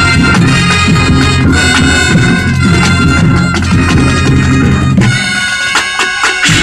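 School band playing, with wind and brass instruments over drums. Near the end the low parts drop out for about a second, leaving the higher instruments and sharp percussion hits.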